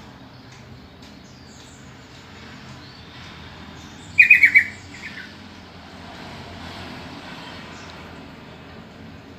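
Sooty-headed bulbul (trucukan) giving one short burst of four rapid call notes about four seconds in, followed by a fainter single note, over steady background hiss.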